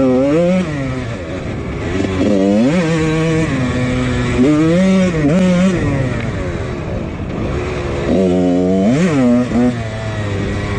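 1999 Husqvarna CR125's single-cylinder two-stroke engine revving up and dropping back as the dirt bike is ridden, with four bursts of throttle, the last one near the end.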